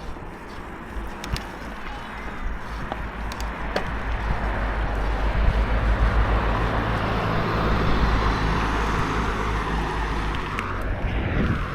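Mountain bike running down a dirt trail: rumbling wind noise on the microphone with tyres rolling over the ground and the odd sharp click or rattle from the bike, growing louder from about four seconds in as speed picks up.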